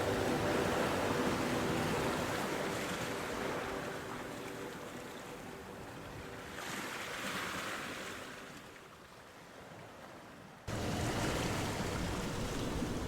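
Ocean surf washing ashore as a steady rushing hiss that slowly fades, with one wave swelling about seven seconds in. Near eleven seconds the surf sound cuts back in suddenly at full strength.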